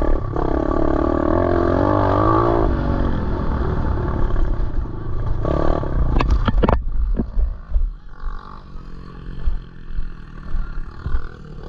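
Pit bike engine running off-road, revving with its pitch rising and falling, over the rattle of the bike on rough ground. A few sharp knocks come about six to seven seconds in, after which the engine is quieter.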